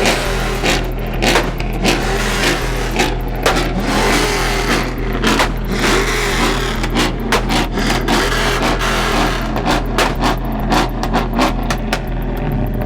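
Car engines running and revving, with a run of irregular sharp cracks over the steady low engine sound.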